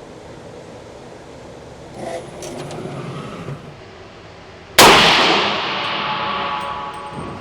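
Soft clicking and rattling, then about five seconds in a single sudden loud bang that rings on and fades away over about two seconds.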